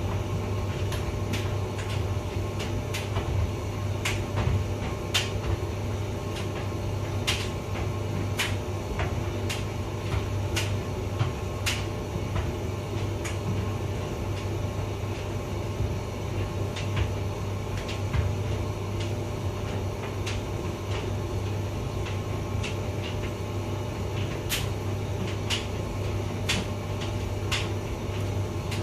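Hotpoint vented tumble dryer running: a steady low motor hum and drum rumble, with light irregular clicks and taps every second or so.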